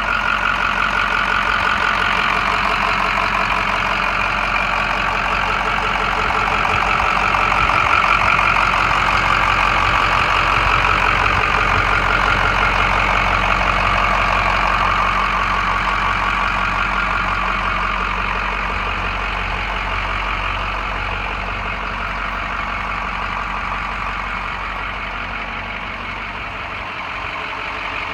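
Engine of a 2007 Ford F-550 bucket truck running steadily. It grows slightly louder about a third of the way in, then eases off near the end.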